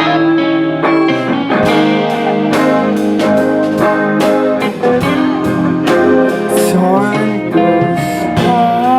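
Live rock band playing an instrumental passage between sung lines: guitars over drums, with a lead guitar note bent upward near the end.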